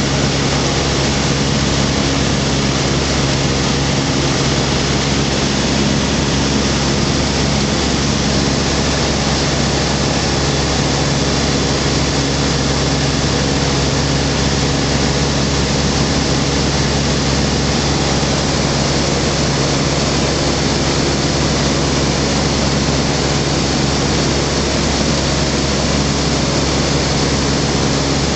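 Skyranger microlight's Rotax 912 four-cylinder boxer engine and propeller running at steady power in flight, with a dense rush of airflow over it. The drone holds an even pitch throughout.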